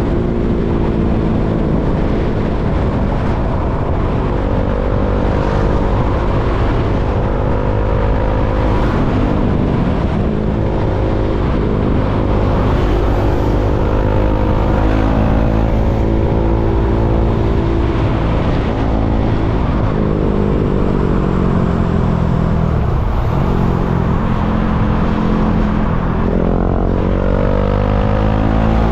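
KTM Duke 390's single-cylinder engine running under way, its pitch rising and falling repeatedly as the throttle opens and closes, climbing steeply near the end, over a steady low rumble.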